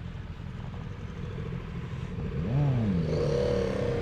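Motorcycle engines running while riding. About two and a half seconds in, one engine revs up and drops back, and the engine sound gets louder to the end.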